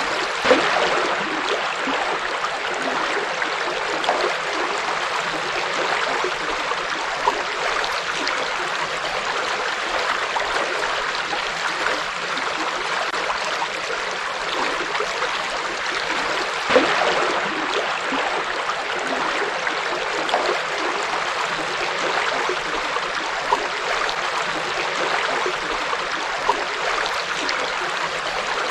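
Forest river flowing steadily over its bed, a continuous even rush of water with a few brief louder splashes.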